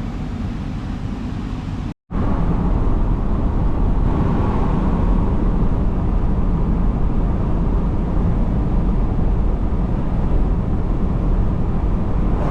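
Ocean surf, a steady rush of breaking waves. The sound drops out for an instant about two seconds in and comes back a little louder.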